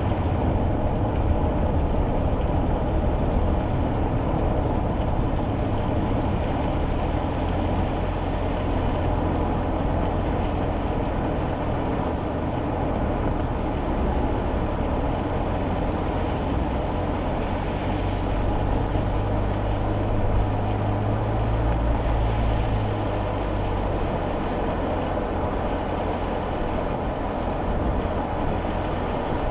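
Steady road and engine noise inside a kei car's cabin while driving on wet roads: a low rumble with tyre hiss over it.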